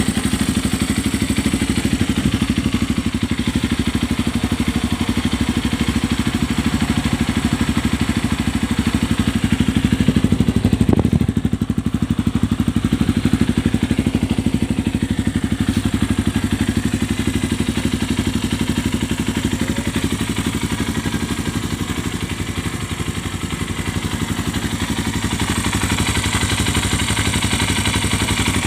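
Kawasaki KLX230 dirt bike's air-cooled single-cylinder four-stroke engine idling steadily, freshly started.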